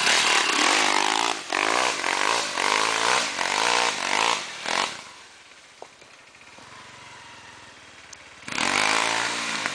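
Off-road trail motorcycle engines revving hard in repeated surges as a bike climbs. The engine fades away about five seconds in, and another loud rev comes in near the end.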